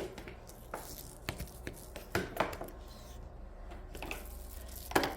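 A few light, separate clicks and knocks of the plastic attachments of a Vacmaster UC0101 upright vacuum being handled and put back on the vacuum, with a louder knock near the end.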